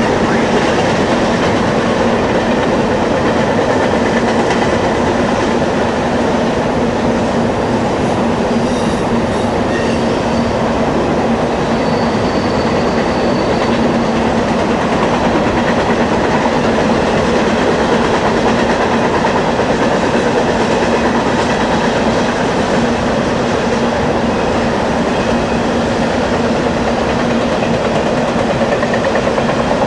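A train rolling past steadily on the rails, its cars running by without a break, with a faint high wheel squeal briefly about twelve seconds in.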